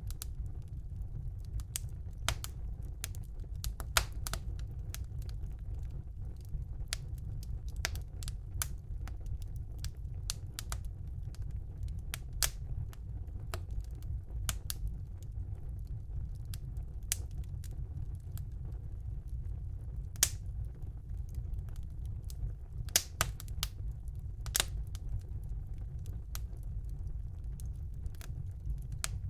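Wood fire burning in a fireplace: irregular sharp crackles and pops over a steady low rumble of the flames, with a few louder pops among them.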